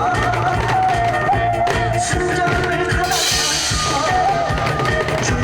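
Live Korean trot song performed by a band: a drum kit keeps a steady beat under a held, stepping melody line, with a cymbal crash about three seconds in.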